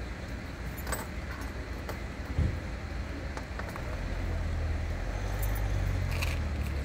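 A motor vehicle's engine running with a low, steady rumble that grows louder in the second half, with a few small metallic clinks and a dull knock scattered over it.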